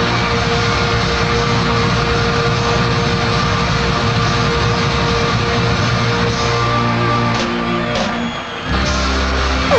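Live rock band playing with electric guitars to the fore. The music dips briefly near the end, then comes back with a low held note.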